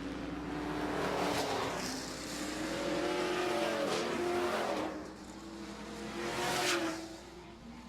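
Super Truck race trucks' engines running on a dirt oval, several passing by one after another with their engine pitch rising and falling; the loudest passes come about a second in, about four seconds in and near the end.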